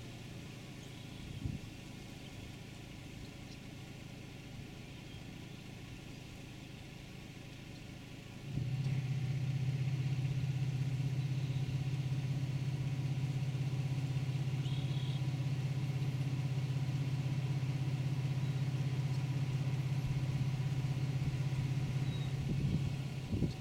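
Steady low hum of an idling engine, jumping louder about eight seconds in and holding steady until near the end.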